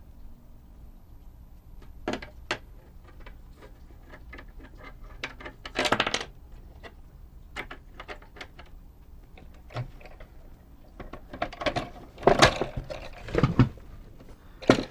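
Small plastic and metal parts of the Omnibot 2000's tray mechanism clicking and clattering as they are handled and set down. Light scattered clicks run throughout, with a louder clatter about six seconds in and a busier run of clatters near the end.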